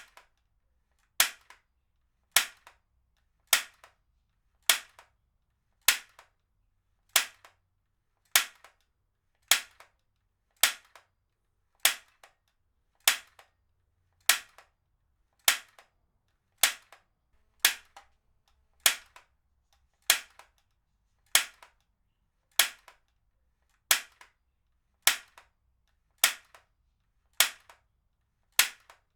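Heavy-duty stapler firing over and over at an even pace, one sharp snap a little more than once a second, each followed by a fainter click.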